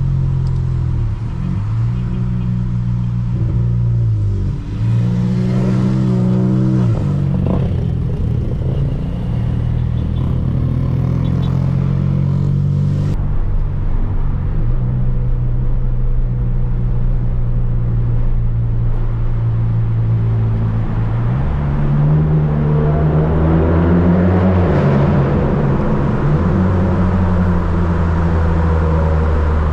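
Volkswagen Polo GTS's tuned turbocharged 1.4 four-cylinder with a sport exhaust, driven through town: the engine note steps up and down several times with throttle and gear changes, and swells into a louder acceleration about three quarters of the way in.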